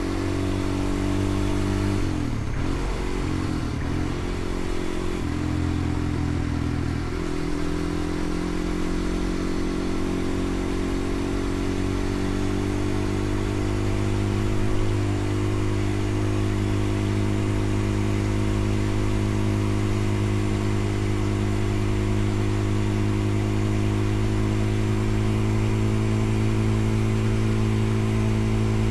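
Motorcycle engine running while ridden. Its pitch shifts up and down a few times in the first seven seconds or so, then holds steady.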